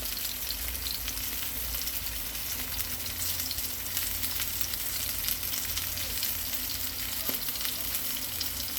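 Chicken breasts frying in olive oil in a pan, a steady sizzle with fine crackling and spitting.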